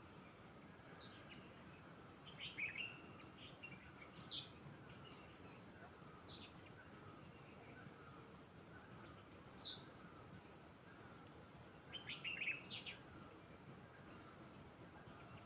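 Small birds calling and singing: short, high, falling whistled notes in scattered phrases, loudest about two and a half and twelve and a half seconds in, over faint outdoor hiss.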